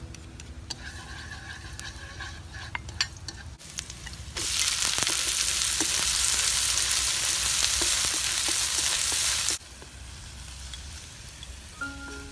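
Garlic and chopped ingredients sizzling hard in hot oil in a wok as they are stirred with chopsticks; the sizzle starts suddenly about four seconds in and cuts off suddenly about ten seconds in. A few light clicks come before it.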